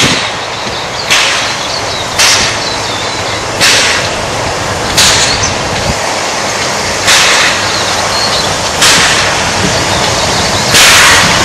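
Steam locomotive chuffing slowly and unevenly, with a sharp hissing puff of exhaust about every one to two seconds over a steady rumble.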